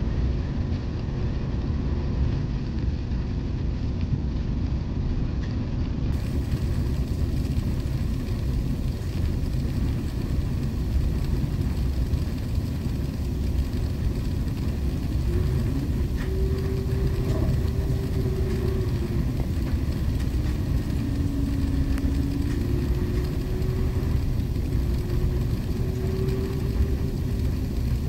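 Steady low rumble of an Airbus A380 heard from inside the passenger cabin, its jet engines running, with faint tones drifting up and down in the second half.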